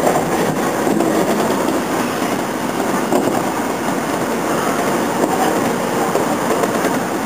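Steady running noise of a moving train heard from inside a passenger car.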